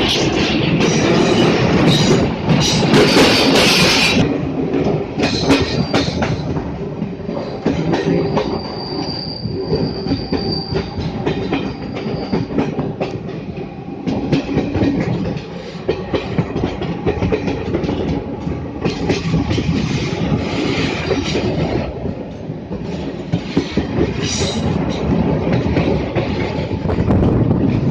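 Train running on the rails, the wheels clacking over rail joints, with a high steady wheel squeal for about four seconds in the middle.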